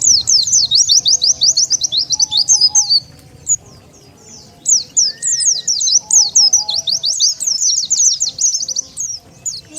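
White-eye (pleci) lure song: rapid runs of high, sharply falling chirps, in two long bursts with a pause of about two seconds between them.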